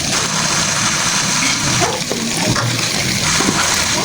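A steady, loud rushing noise like running water, with a few faint sounds under it.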